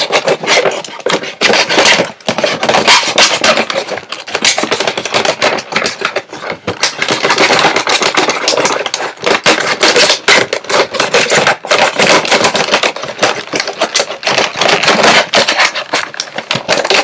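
Action-figure packaging of cardboard and plastic being handled and worked open close to the microphone: continuous loud crackling, scraping and rustling full of small clicks.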